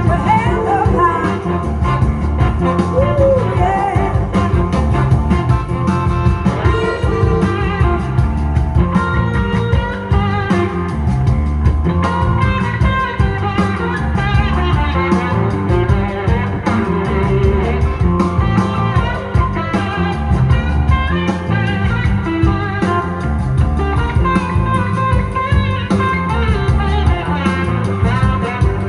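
Blues-rock band playing, with electric guitar to the fore over a steady drum beat.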